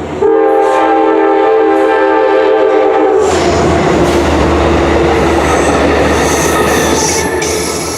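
Passenger train's horn sounding one long chord of several tones for about three seconds, then the train running past with a loud rush and rumble of wheels on the rails.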